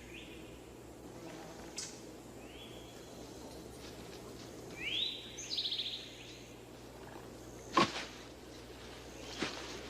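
Short, raspy chirping bird calls over faint natural outdoor ambience, with a few sharp knocks, the loudest about eight seconds in.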